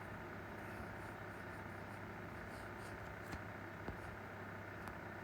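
Steady low room hum with a few faint clicks about three and four seconds in, and again near the end.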